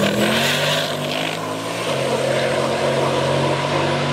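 Drag race car's engine at full throttle, accelerating away down the strip with its pitch rising, then dropping once about two seconds in at a gear change before holding on.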